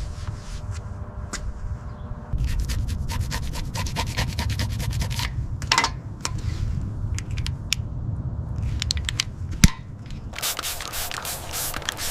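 Rapid rubbing and scraping strokes on a surface, as in sanding, over a steady low rumble, with one sharp knock a little past two-thirds in and denser, brighter scraping near the end.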